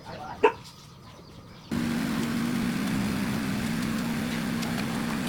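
A dog barks once. Then a small engine starts running steadily with a constant hum, coming in suddenly less than two seconds in.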